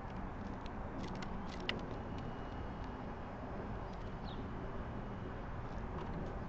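Steady low rumble of distant road traffic as outdoor background. A few light clicks fall in the first two seconds, and a faint short high chirp comes about four seconds in.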